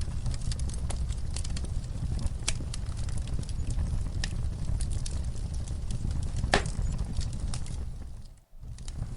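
Wood fire crackling in a fireplace: a steady low rumble of flames with many small snapping crackles and one louder pop about two-thirds of the way through. Shortly before the end the sound briefly fades almost to silence, then comes back.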